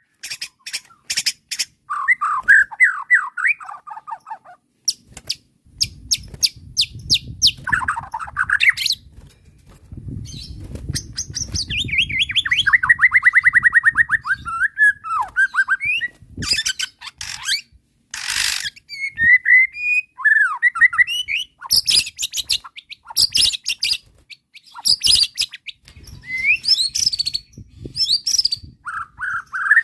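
White-rumped shama (murai batu) in agitated full song: varied phrases of rapid clicking trills, fast runs of repeated notes, rising and falling whistles and harsh chattering, with short pauses between phrases. A faint low rumble sits under some of the phrases.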